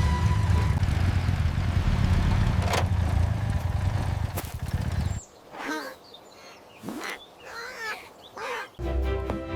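Background music for about five seconds, then it stops. A few short animal calls follow, each gliding up and down in pitch, before the music comes back near the end.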